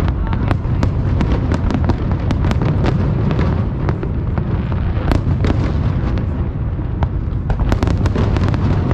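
Fireworks display: a continuous low rumble of aerial shell bursts with many sharp crackling pops, several a second, layered over it.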